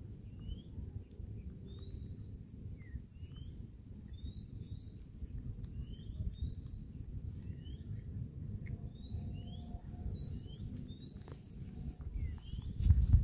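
A bird calling repeatedly with short rising chirps, every half second or so, over a steady low rumble. A louder rustle comes in near the end.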